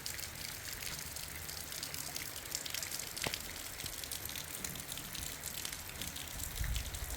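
Heavy rain falling, a steady hiss dotted with many small drop strikes, with a low rumble near the end.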